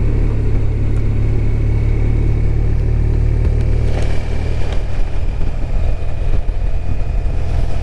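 BMW R1200RT's boxer-twin engine running steadily while the motorcycle is ridden, a continuous low rumble mixed with road and wind noise.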